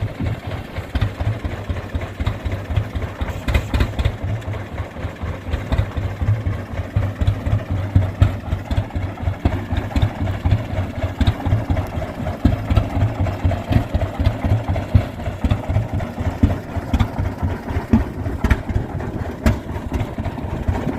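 1922 Rumely OilPull 16-30H's two-cylinder, oil-cooled kerosene engine running steadily at a slow idle, with an even beat of exhaust pulses. The tractor has just come back to life after sitting for about twenty years.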